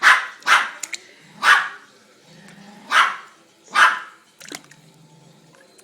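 A pet bird giving five short, harsh squawks, unevenly spaced, with a gap of about two seconds before the end.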